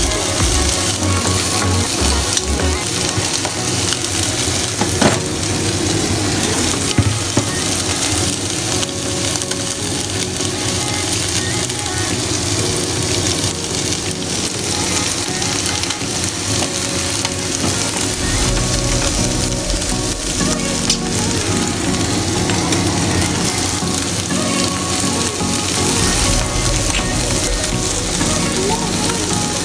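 Diced carrot, corn and green vegetables sizzling steadily as they fry in a non-stick pan, with a couple of sharp taps about five and seven seconds in.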